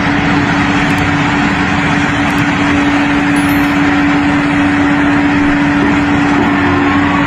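Steady, loud machine noise with a constant hum, like a running engine or motor.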